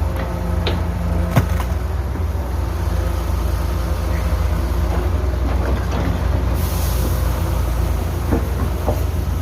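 Heavy construction machinery's diesel engine running with a steady low rumble, with a few sharp metallic clanks and knocks (the loudest about a second and a half in) and a short hiss about seven seconds in.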